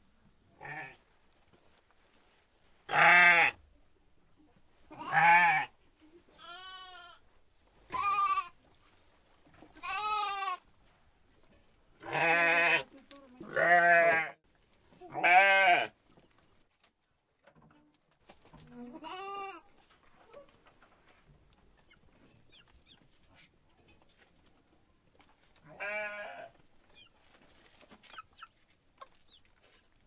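Goats bleating: about a dozen short, wavering calls, each under a second, coming every second or two during the first half, then only two more after long pauses.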